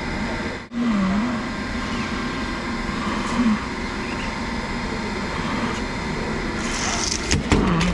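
Steady mechanical noise, like a machine or engine running, with a few sharp knocks near the end.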